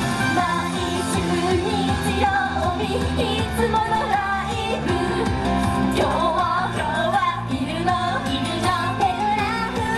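Upbeat Japanese idol-pop song with a female singing voice over a steady band backing.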